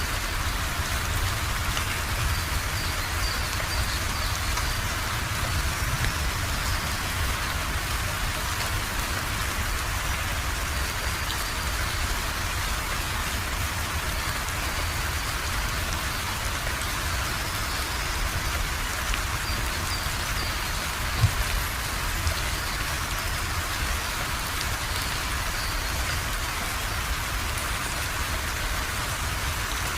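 Steady rain falling, a dense even patter of drops on surfaces, with one sharper tap standing out about two-thirds of the way through.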